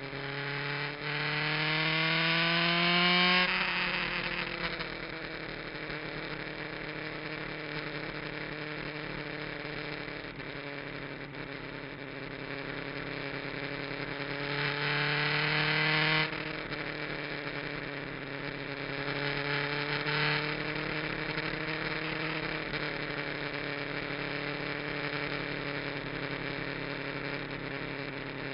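Kawasaki GPZ900R's inline-four engine heard on board at track speed: the revs climb hard for the first few seconds, then hold and ease off. About halfway through they climb again and drop off sharply, followed by a smaller rise and a steady run at part throttle.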